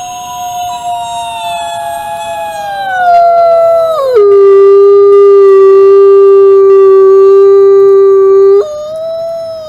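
Wolf howling: one long call that slides slowly down, then drops suddenly about four seconds in to a lower, louder note held for several seconds. Near the end it jumps back up briefly and falls away.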